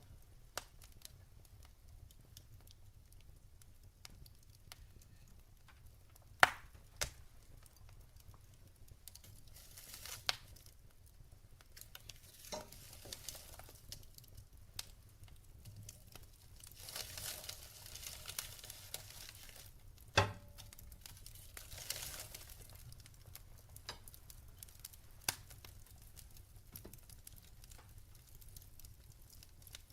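Logs burning in a fireplace: soft crackling and hissing with scattered sharp pops, the loudest about six seconds in and another about twenty seconds in.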